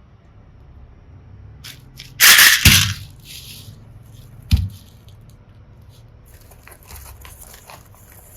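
Slime mixed with small plastic charms being squeezed and picked through by hand: a loud crunchy squish about two seconds in, a single sharp click a couple of seconds later, then a run of small crackles near the end.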